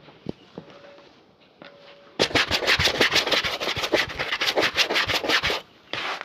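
A shoe being buffed with fast back-and-forth rubbing strokes, about six a second. The strokes start about two seconds in and stop briefly near the end before going on.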